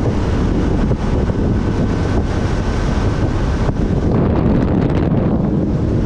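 Heavy wind buffeting on the microphone of a GoPro riding on a moving motorcycle, a dense steady rush strongest in the low range, with motorcycle and traffic noise blended underneath.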